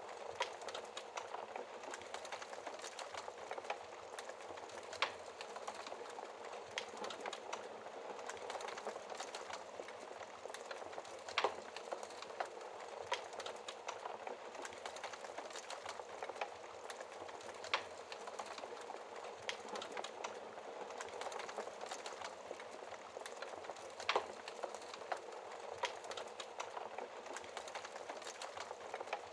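Wood fire burning in a fireplace: a steady crackle of small snaps and hissing, with a louder sharp pop every few seconds.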